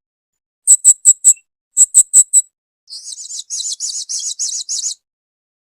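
Blue-crowned hanging parrot (serindit) calling: two quick groups of four sharp, high chirps, then a faster run of about a dozen chirps that stops about five seconds in.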